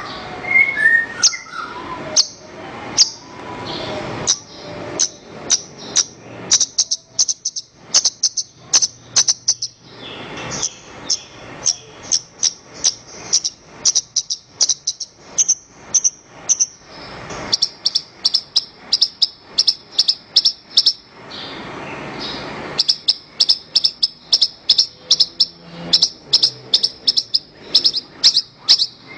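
Javan bush lark (branjangan) singing: a long run of short, sharp, high chirps at about four a second. The chirping is broken twice by lower, scratchy warbling passages.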